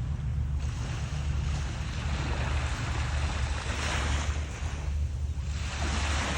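Waves washing onto a shore, the surf hiss swelling and falling back every couple of seconds, with wind rumbling on the microphone throughout.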